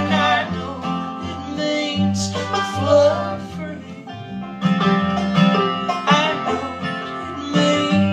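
Live acoustic folk string-band music: plucked strings over a pulsing bass line, with sustained melody notes.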